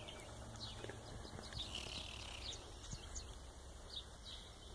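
Faint, scattered bird chirps over a steady low rumble of wind on the microphone.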